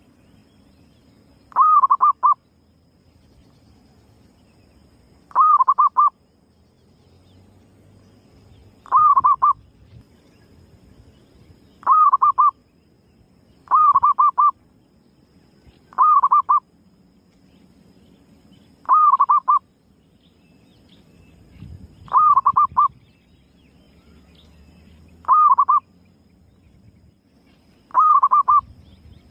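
Female zebra dove (perkutut) calling: short coos, each a quick run of a few notes, ten times at irregular gaps of two to three seconds. It is used as a lure call to draw other zebra doves in.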